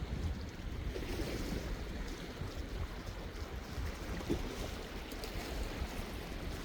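Sea waves washing against the shore, with wind rumbling on the microphone; a steady wash of sound.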